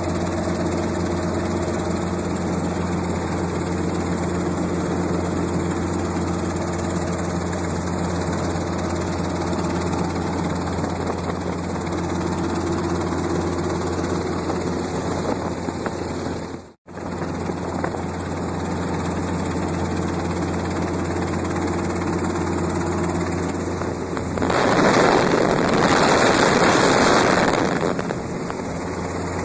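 Steady drone of a light helicopter's engine and rotor in flight, heard from on board. It cuts out for a moment about two-thirds of the way through, and near the end a louder rushing noise comes in for about three seconds.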